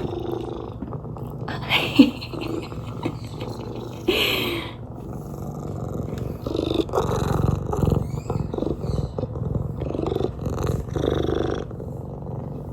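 Domestic cat purring steadily, with a few short noises on top of the purr.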